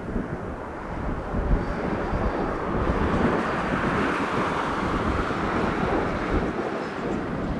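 Kawasaki T-4 jet trainers passing. A jet roar swells to its loudest around the middle and eases toward the end, with wind buffeting the microphone.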